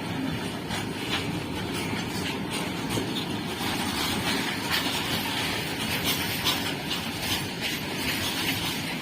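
Railway wagons rolling past on the track: a steady rumble of wheels on rail, broken by repeated clacks as the wheels pass over rail joints.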